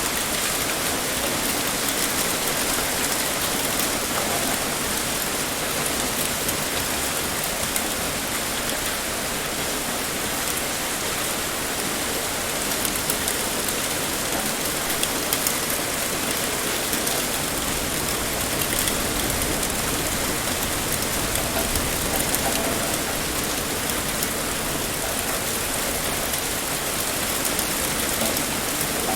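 Heavy rain pouring steadily, a dense even hiss with many fine drop ticks on a hard surface.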